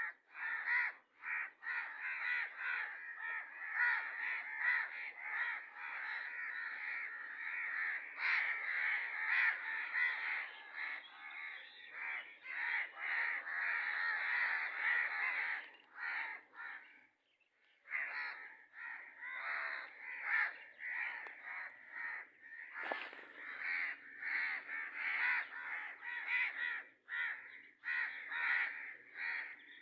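Birds calling, harsh caw-like calls repeated rapidly and overlapping almost without a break, pausing briefly about seventeen seconds in. A single sharp click about twenty-three seconds in.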